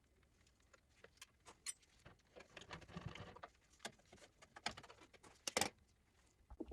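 Faint handling noises while working on an oil burner's parts: scattered small clicks and taps, a short stretch of rustling about three seconds in, and one sharper click a little past halfway.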